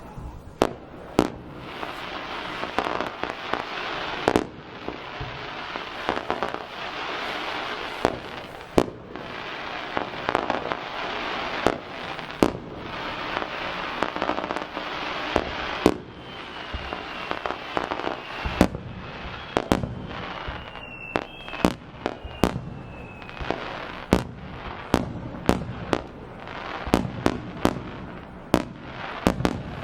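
Aerial fireworks display: a rapid, uneven series of shell bursts going off as sharp bangs over constant crackling. About halfway through, a thin whistle glides slowly down in pitch for several seconds.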